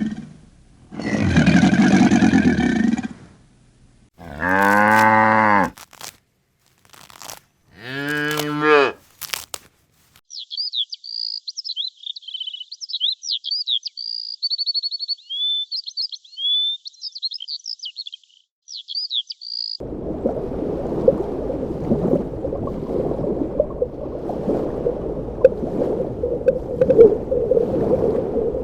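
Cattle mooing, three or four long low calls in the first nine seconds. Then rapid high chirping calls follow for about nine seconds, and after that a steady rough murmur of animal noise.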